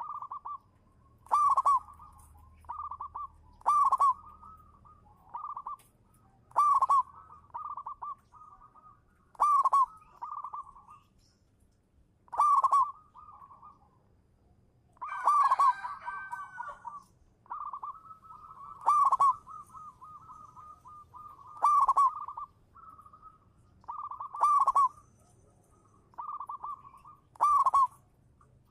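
Zebra dove (perkutut) singing its cooing song: loud, clipped coos about every three seconds, each followed by softer rolling trills. The song runs denser and more layered for about two seconds around the middle.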